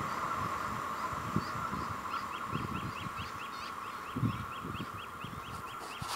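Electric-hauled freight train receding along the track, a steady hum that slowly fades. From about two seconds in, a bird calls a short chirp over and over, about three times a second.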